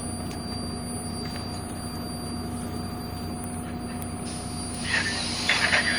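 Steady low drone of a MAZ-105 articulated city bus heard from inside the cabin while under way. About four seconds in a hiss starts, followed by louder high squealing and scraping near the end.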